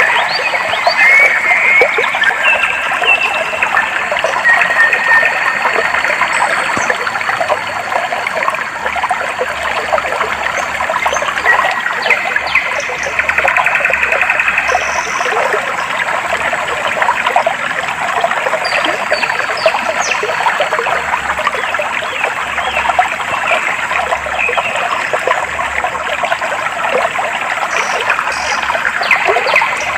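Clear stream water trickling and splashing steadily, with short bird chirps now and then, several in the first few seconds.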